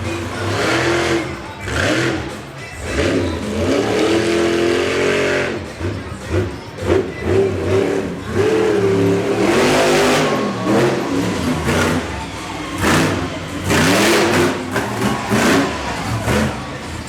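Monster truck engine revving hard, rising and falling in pitch over and over as the truck is driven through a freestyle run.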